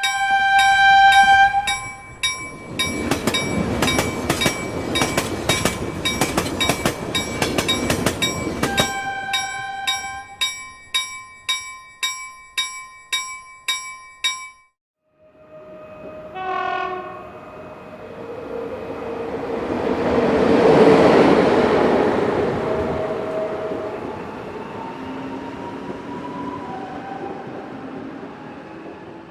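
A train sounding its horn while a bell rings rapidly and steadily, then, after a break, another horn blast and a train passing by, growing loud and fading away.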